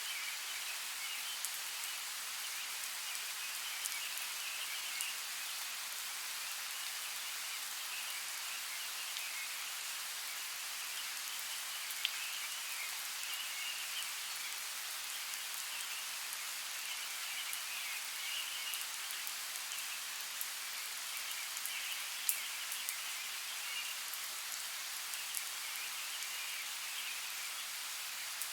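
Steady hiss of water, with scattered sharp ticks like falling drops and a fluttering higher-pitched band that comes and goes.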